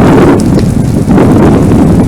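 Loud, rushing roar of a wildfire burning around a trail camera, with gusts buffeting the microphone and a few faint crackles about half a second in.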